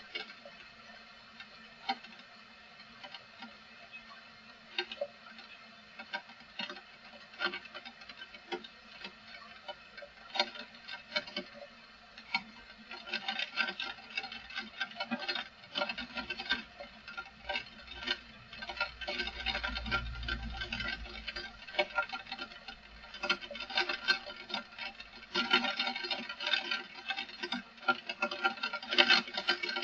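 Raindrops pattering as separate irregular ticks, sparse at first and thickening into a dense patter about halfway through, with a low rumble of wind around two thirds of the way in.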